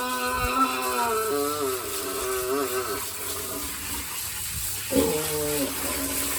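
Pigs crying out with long, wavering, pitched calls over steady running water from hosing down the pens. One cry holds a steady pitch, then wobbles and fades about three seconds in. Fresh cries start about five seconds in and again near the end.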